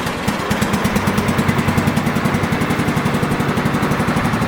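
Late-90s Scotts 16 hp lawn tractor engine running steadily just after starting, with an even, rapid exhaust pulse.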